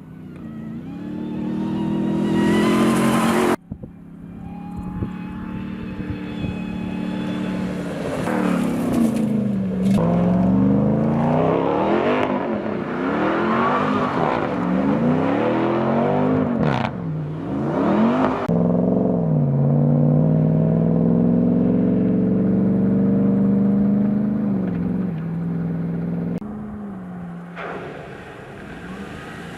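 The Ram 1500 TRX's supercharged 6.2-litre Hellcat V8 being driven hard. The engine revs up and drops back again and again as it accelerates and shifts, with short steady stretches between. The sound breaks off abruptly a few times as the footage cuts from shot to shot.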